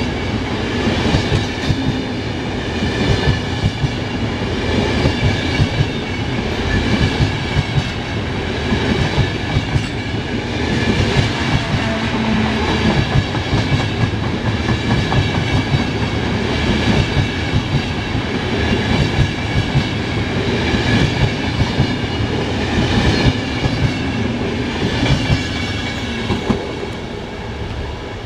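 A long rake of passenger couchette coaches rolling past at speed. Their wheels clatter over the rail joints in a rhythmic clickety-clack, with a louder cluster of clacks about every two seconds, over a steady rumble. The sound begins to fade near the end as the last coach goes by.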